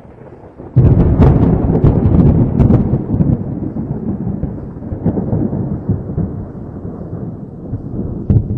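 Thunder: a sudden loud clap about a second in, crackling for a couple of seconds, then rolling into a long rumble that slowly fades, with another sharp crack near the end.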